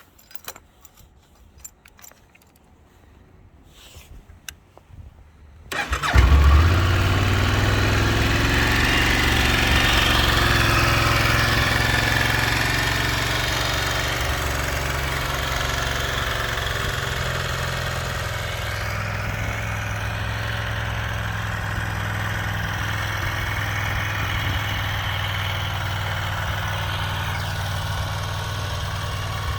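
Faint clicks, then a 1996 Yamaha TDM 850's parallel-twin engine is started from cold, catching suddenly about six seconds in. It runs louder at first, then eases down into a steady idle.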